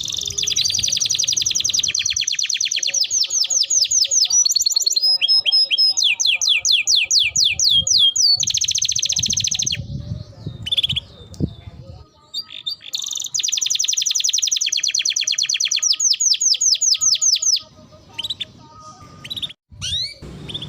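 Domestic canary singing long, fast rolling trills of rapidly repeated high notes, broken by runs of quick downward-sweeping notes and short pauses with scattered chirps.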